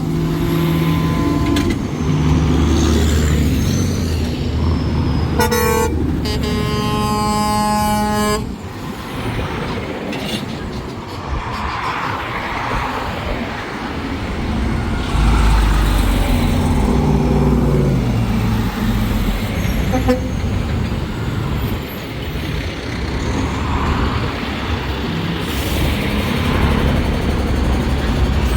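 Trucks driving past in a convoy, engines running, with truck horns blowing. One horn blast trails off in the first second or so, a short blast comes about five and a half seconds in, and a longer one runs from about six to eight seconds. The rest is the steady rumble of the trucks' engines.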